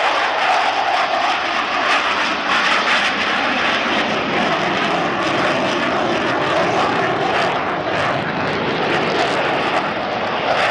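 McDonnell Douglas F-15C Eagle fighter jets' engines running at high power on takeoff: loud, steady jet noise without a break.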